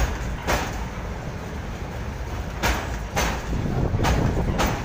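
Indian Railways covered freight wagons rolling past close by: a steady heavy rumble of steel wheels on rail, with sharp clacks in pairs about half a second apart as each bogie's wheelsets cross a rail joint.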